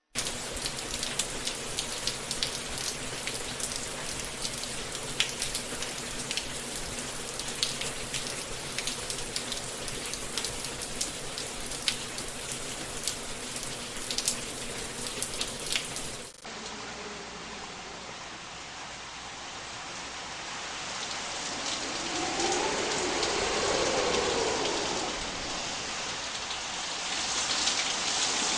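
Rain falling, with many sharp, close drop hits over a steady hiss. About sixteen seconds in it cuts to a second, smoother rain recording, which swells louder for a few seconds near the end.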